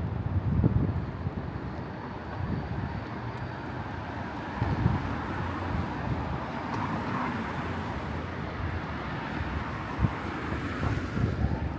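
Outdoor city ambience: a steady wash of traffic noise, with wind buffeting the microphone in gusts.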